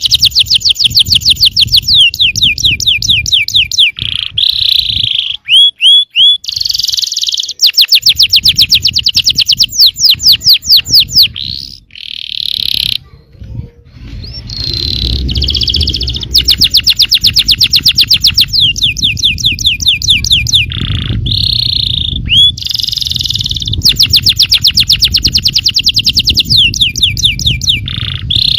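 Yellow domestic canary singing a long song of rapid trills and rolls: fast runs of evenly repeated sweeping notes, broken by brief pauses and a few short held notes.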